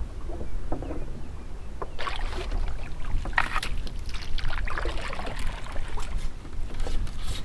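Water splashing and trickling against the hull of a small sailing dinghy, in irregular splashes with small knocks, which grow busier about two seconds in. There is a low wind rumble on the microphone throughout.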